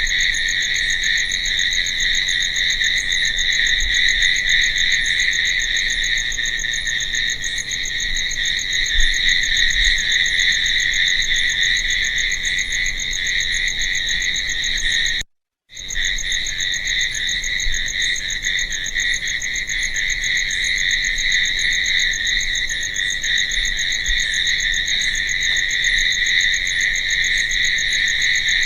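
Dense, steady chorus of crickets chirping, a continuous high trill, cut by a brief total dropout to silence about halfway through.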